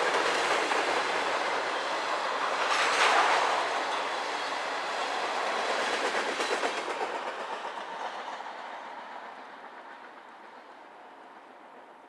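Freight train cars rolling past on the rails, wheels clacking rhythmically over rail joints, loudest about three seconds in, then fading away over the last few seconds as the train moves off.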